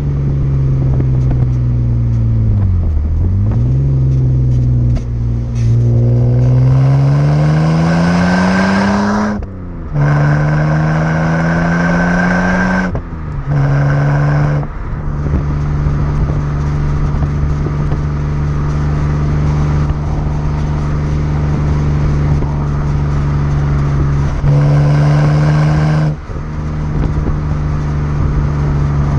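2006 BMW 330i's 3.0-litre straight-six running through a Rogue Engineering aftermarket exhaust while driving. The engine note dips about three seconds in, then climbs under acceleration, broken by short gaps at the gear changes around ten and thirteen seconds in. It then settles to a steady cruising drone, with a brief louder stretch near the end.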